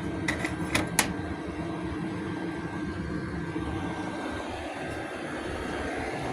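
A steady low mechanical rumble, with a few sharp clicks in the first second.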